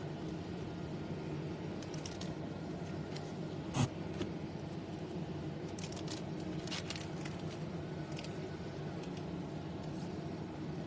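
Light clicks and rustles of trading cards and plastic card sleeves being handled, over a steady low room hum; the sharpest click comes about four seconds in, with a few more around six to seven seconds.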